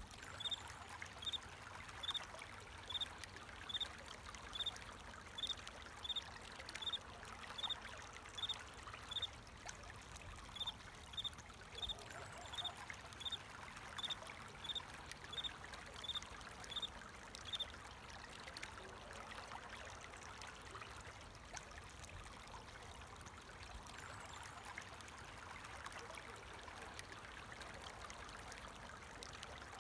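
Water flowing steadily in a small stream. A cricket chirps over it about once a second at one high pitch, and the chirping stops a little past halfway.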